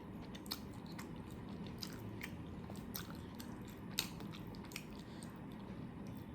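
Close-miked eating: chewing with scattered wet mouth clicks and smacks, the sharpest click about four seconds in.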